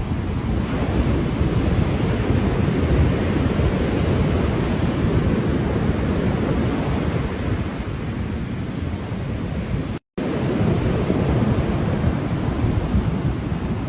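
Ocean surf washing steadily, a dense low rush of waves with no distinct breaks. The sound cuts out completely for a split second about ten seconds in.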